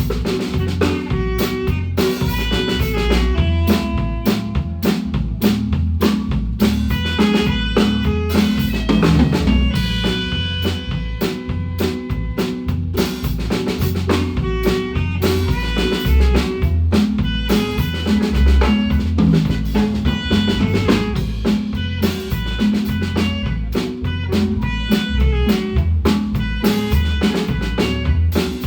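Guatemalan marimba band playing live: rapid struck marimba notes over a drum kit with snare and rimshot hits and a heavy bass line, in a steady dance rhythm.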